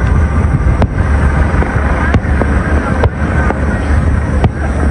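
Aerial firework shells bursting: several sharp bangs, roughly one a second, over a steady low rumble.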